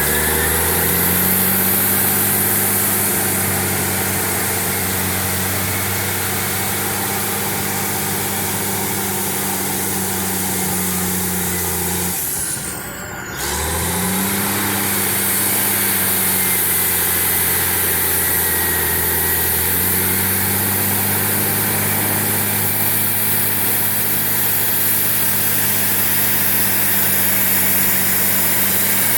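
Cat D8N crawler dozer's six-cylinder diesel working hard while pushing topsoil, a loud steady drone with a high whine on top. About twelve seconds in the engine note drops away briefly, then picks back up to full revs.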